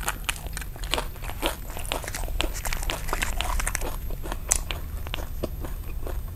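Close-miked chewing of a mouthful of nem nướng rice-paper roll, with dense, irregular crunches.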